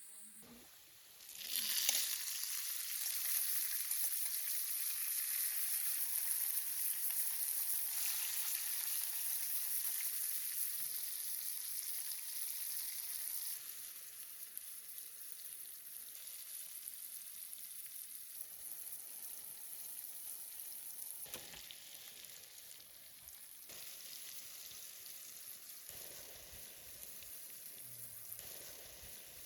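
Food frying in hot oil, sizzling loudly. The sizzle starts suddenly a second and a half in, as if food has just gone into the pan, then settles to a quieter steady sizzle about halfway through.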